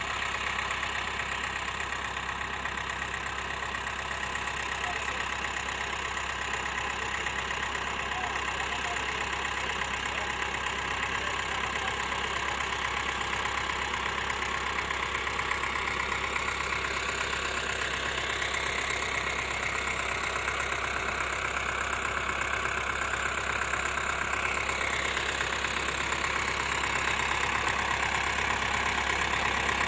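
An engine running steadily, with a slight rise and fall in pitch in the second half and growing a little louder near the end.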